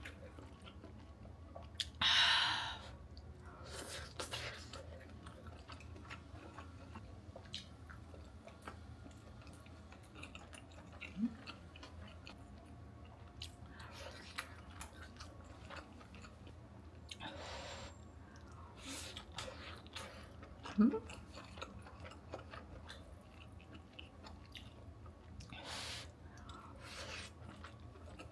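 A person chewing food close to the microphone, with a few louder bursts of chewing, scattered light clicks and one brief sharp sound about three quarters of the way through, over a steady low hum.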